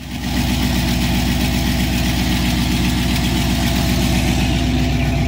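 1987 Corvette's 5.7-litre V8, fitted with headers and a high-flow catalytic converter, idling through its exhaust with a steady, even pulse.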